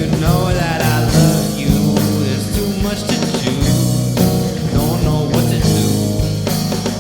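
Rock music: a full band with electric guitar and drums, and a wavering, bending melody line over it.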